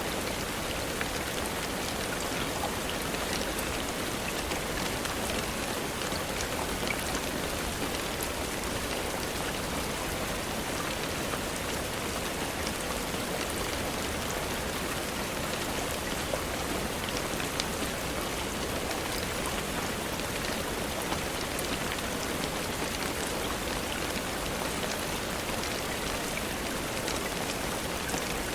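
Steady rainfall: an even hiss of rain with many small, sharp drop ticks scattered throughout.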